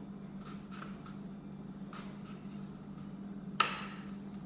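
A one-hole paper punch worked on the end of a cardboard tissue roll: light rustling and handling, then one sharp snap of the punch about three and a half seconds in, over a steady low hum.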